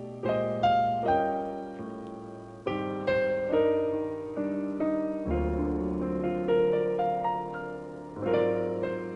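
Piano introduction: chords struck one after another, each left to ring and fade, with a low bass note entering about five seconds in.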